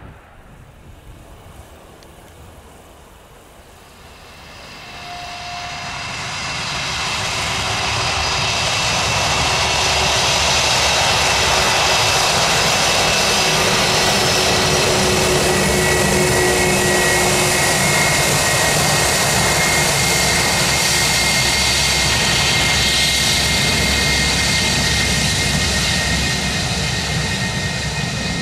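Airbus A321-200 airliner's twin jet engines at takeoff power, swelling from faint to loud over several seconds and then holding steady, with high whining tones over the rushing noise.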